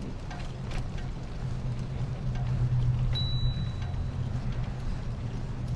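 Bicycle riding noise picked up by a GoPro strapped to the bike: a steady low rumble of tyres rolling and wind, swelling louder in the middle, with faint scattered rattles.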